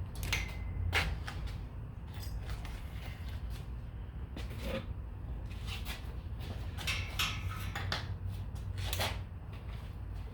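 Light metal clanks and clicks, irregular, from pieces of scrap steel being handled and knocked together; a few ring briefly. A steady low hum runs underneath.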